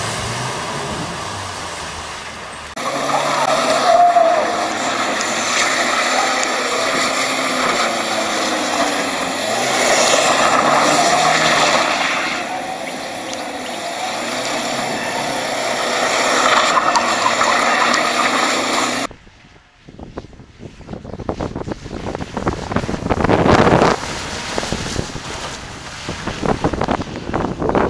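Car engines driven hard with wheelspin across three cut clips. A car pushes through mud, then a BMW 3 Series (E46) revs and spins its wheels on grass for about sixteen seconds, then a small car splashes along a muddy track with a rougher, uneven noise.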